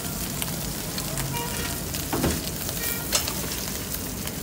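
Chopped kokoreç sizzling on a flat steel griddle, a steady frying hiss, with a few sharp clicks over it.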